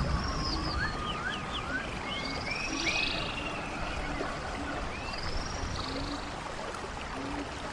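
Running stream water as a steady rush, with birds singing swooping whistled notes through the first five seconds or so. Short low calls repeat irregularly, about once a second, underneath.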